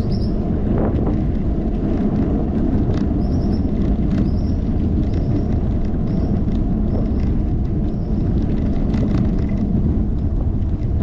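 Wind buffeting a handlebar-mounted GoPro on a moving bicycle: a steady low rumble, with small rattles and clicks from the ride. A short high chirp repeats about once a second through most of it.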